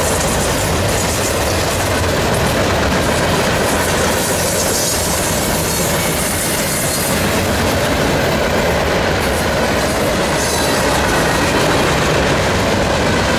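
Freight cars of a CSX freight train rolling past on a curve: a loud, steady rumble of steel wheels on rail with clickety-clack.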